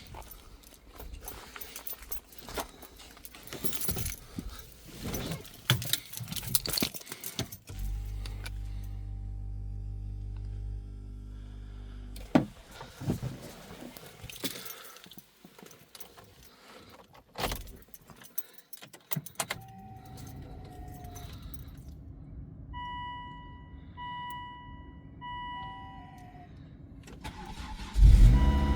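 Keys jangling and clicking as the car is readied, a steady low hum for a few seconds, then four short beeps. Near the end the Volvo XC70 2.5T's turbocharged five-cylinder engine cranks and fires on a cold start, suddenly loud.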